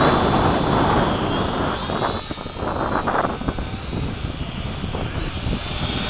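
Small electric RC model B-17 in flight, its motors and propellers whining faintly, with wind rumbling on the microphone.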